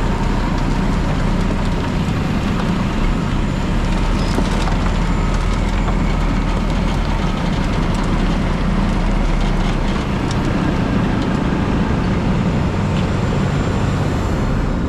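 Asphalt milling machine running and grinding up old asphalt pavement: a loud, steady diesel-and-cutter din.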